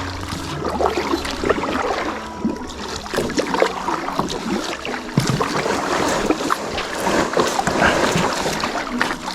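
Kayak grinding and scraping over a shallow sandy bottom while the paddle digs and splashes in the shallows: the boat is running aground. The sound is a continuous rough scraping broken by many small knocks.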